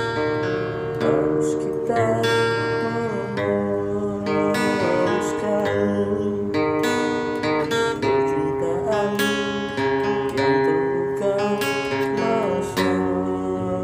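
Guitar strummed in a slow series of chords, sounding out of tune because its E and G strings are broken.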